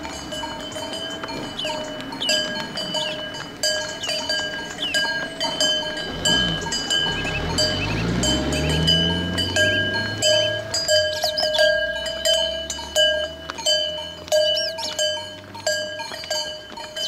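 Cowbells clanking repeatedly on grazing livestock, with one long low cow moo in the middle and small bird chirps in the background.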